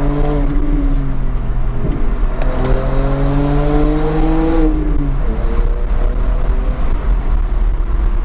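BMW 125i coupé's 3.0-litre naturally aspirated inline-six pulling under acceleration, heard from inside the cabin over steady road and wind rumble. The revs climb, break off near two seconds in, climb again from a lower pitch, then drop about five seconds in to a lighter, steady cruise.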